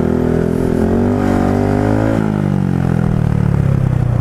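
Single-cylinder motorcycle engine under way, rising in pitch for a second or two, then dropping back and running steadily at lower revs.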